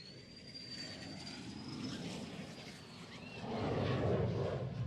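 Aircraft flying past, a high engine whine over a rushing noise that grows and is loudest about four seconds in.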